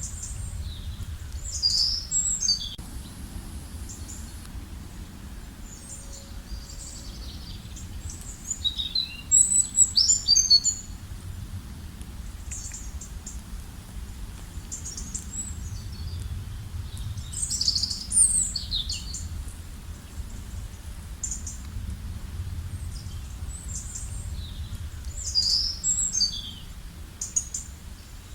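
Songbirds singing: short bright phrases of quick chirps recurring roughly every eight seconds, with scattered single chirps between, over a steady low rumble.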